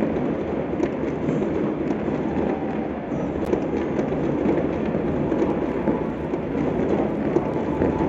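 Many distant fireworks and firecrackers going off across the city, merging into a continuous rumbling crackle with scattered sharp pops, one sharper crack about three and a half seconds in.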